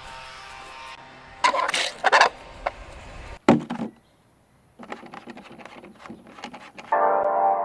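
Short rushes of noise, a sharp knock and scattered clicks and rustling, like things being handled; background music comes in near the end.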